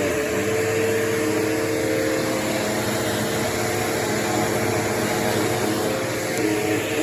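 Bissell PowerForce Turbo bagless upright vacuum cleaner running steadily: a whirring motor with an even hum over a broad rush of air.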